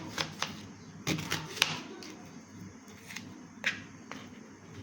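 Kitchen knife chopping onion finely on a cutting board: irregular sharp taps of the blade striking the board, some close together.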